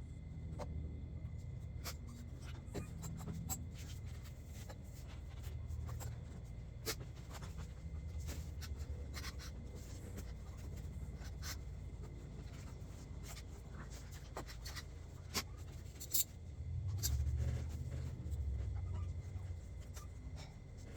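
Scattered light clicks and scraping of car parts being handled and fitted by hand, over a low rumble that grows louder near the end.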